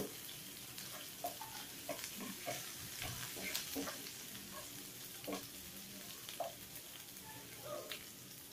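Chopped ginger, garlic and green chilli sizzling in hot ghee in a nonstick frying pan, with a spatula stirring and tapping against the pan now and then.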